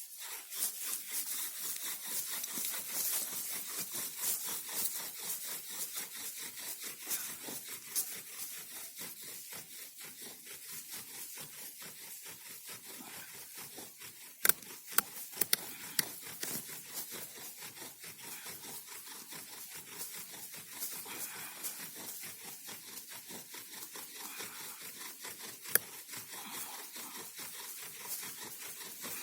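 Bow drill for friction fire-lighting: a wooden spindle turned by a bow with a canvas cord, grinding against dry wood in quick back-and-forth strokes with a steady rubbing sound. A few sharp clicks come about halfway through and once near the end.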